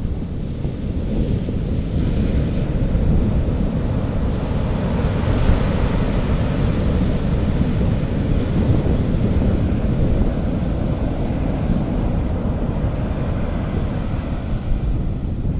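Sea waves washing onto a beach, with wind rumbling on the microphone. A wave's wash swells about two seconds in and eases off near the end.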